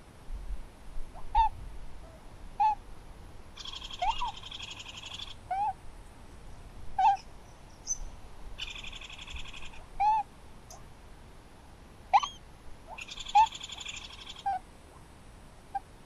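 Birds calling: short, clear, hooked notes repeated every second or so, and three dry rattling calls of about a second and a half each, spaced about four to five seconds apart.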